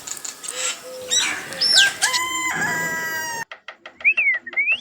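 A rooster crowing, cutting off abruptly about three and a half seconds in. A quick, even run of clicks with a sliding whistle-like tone follows.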